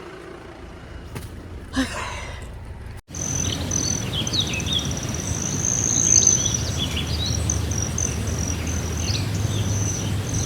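Birds chirping and calling over steady outdoor background noise, with a high, steady trill running through. The birdsong starts suddenly about three seconds in, after a quieter opening.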